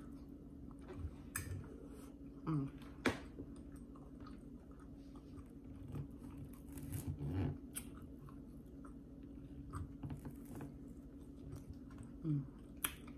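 A person chewing food close to the microphone and biting into toast, with scattered short clicks and crunches.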